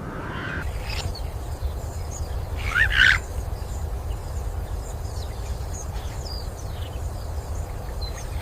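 Outdoor ambience of a steady low wind rumble with scattered short bird chirps, and one louder rising call about three seconds in.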